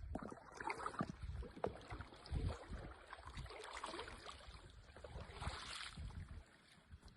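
Kayak paddling: paddle strokes dipping and splashing in the water, with irregular low thumps and a brief louder splash a little before the end.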